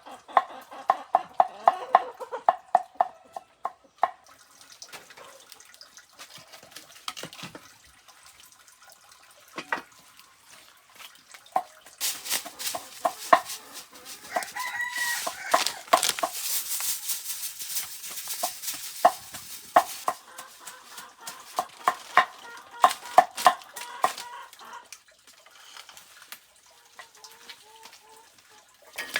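Cleaver chopping on a board in steady strokes, about three a second, in two spells, mincing scraps into chicken feed. Chickens cluck and a rooster crows; a loud hissing rush fills the middle.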